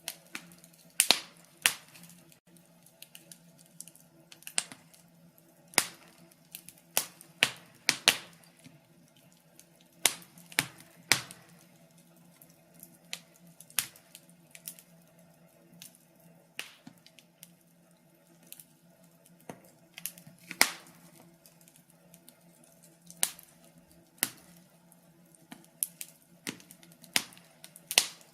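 Wood fire crackling: irregular sharp pops and snaps, some loud and some faint, over a faint steady low hum.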